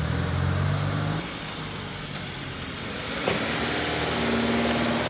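A car engine running with a steady low hum that drops in level about a second in, a single sharp click a little past the middle, then a steadier higher hum until it cuts off suddenly.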